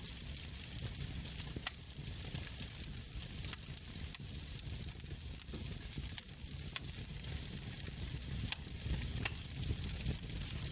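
Wood fire burning in a fireplace: a steady crackling hiss and low rumble from the burning logs, with a handful of sharp pops scattered through.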